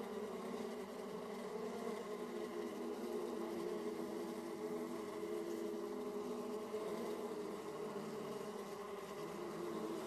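Honey bees buzzing at a hive entrance: the steady, many-voiced hum of a colony's bees flying in and out, with pitch bands that waver slightly.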